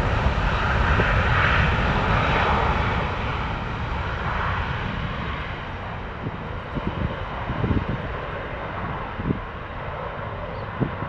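Jet engines of a departing Boeing 767 freighter after takeoff, a steady roar that slowly fades as the aircraft moves away. Wind gusts on the microphone.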